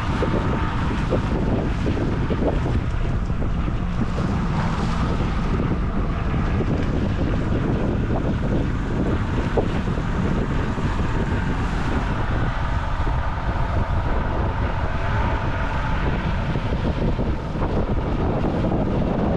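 Small motorboat under way, its motor a steady drone under heavy wind buffeting the microphone.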